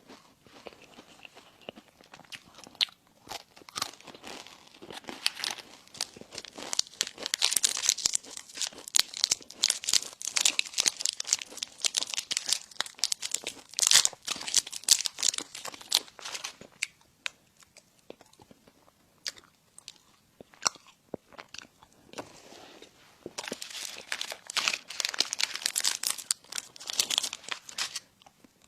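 A person chewing crunchy food close to the microphone: a dense run of crisp crunches and mouth clicks that thins out for a few seconds in the middle before picking up again.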